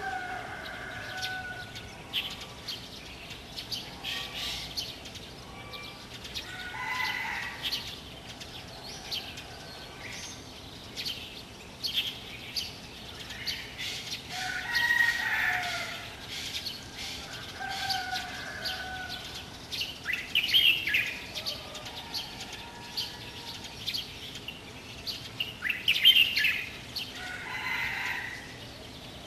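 Birds chirping on and off throughout, with louder calls lasting about a second every few seconds.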